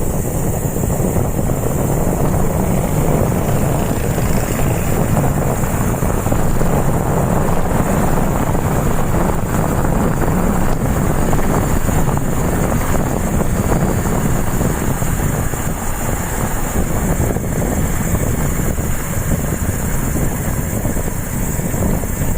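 Steady rushing noise of wind buffeting a camera microphone while riding a bicycle, with road noise underneath.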